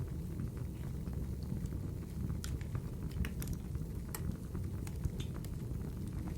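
Wood fire burning in a fireplace: a steady low rumble of flames with scattered sharp crackles and pops, a few louder snaps in the middle.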